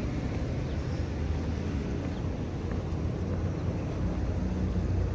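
Steady low rumble of background noise with a faint low hum, unchanging throughout.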